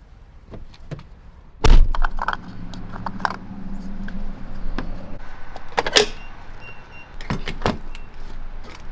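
A truck door shutting with a heavy thump, followed by clicks, knocks and jangles of someone moving about inside the truck, over a low steady engine hum.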